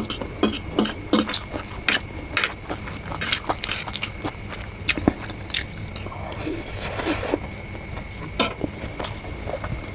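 Close-miked chewing of a mouthful of egg chow mein noodles, with irregular wet mouth clicks and smacks. A metal fork now and then scrapes and taps against the plate.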